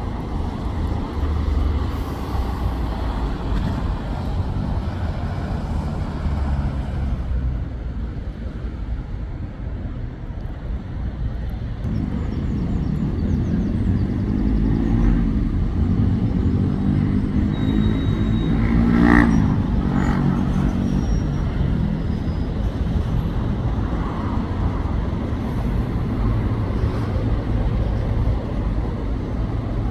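Road traffic passing, a steady rumble of engines and tyres. From about 12 seconds in, one vehicle's engine grows louder, passes closest at about 19 seconds, and falls in pitch as it goes by.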